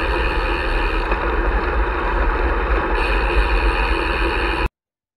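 Wind buffeting the microphone and rolling noise from a bicycle ride: a steady rushing noise with a heavy low rumble. It cuts off suddenly near the end.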